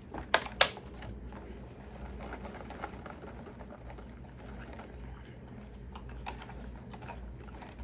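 Two sharp clicks, then faint chewing of raw arugula leaves over a steady low background hum.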